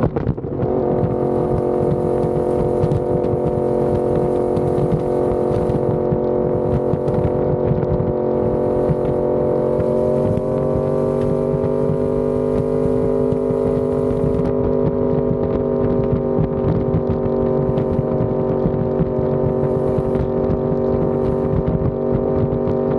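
Yamaha R1M crossplane inline-four running through an SC Project exhaust while riding, holding a steady engine note. The loudness dips briefly at the start, and the pitch rises slightly about ten seconds in.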